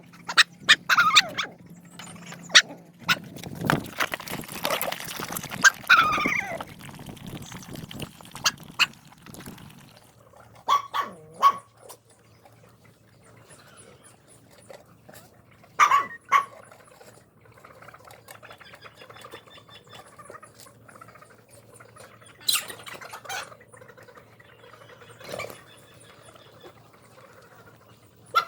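Dogs whining and giving short barks, most often in the first six seconds, then single short calls every few seconds.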